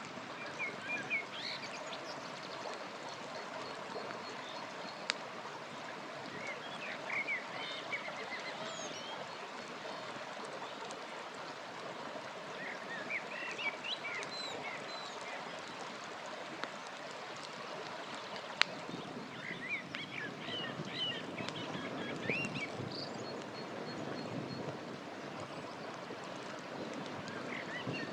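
A river running steadily, with songbirds chirping in several short bursts. There are two sharp pops from a crackling campfire, one about five seconds in and one past the middle.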